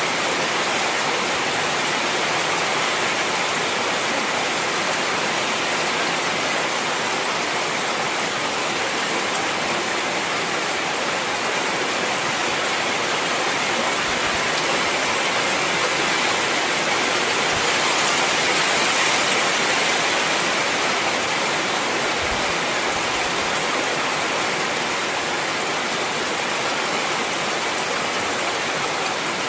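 Heavy rain falling in a steady, dense hiss, swelling slightly a little past halfway.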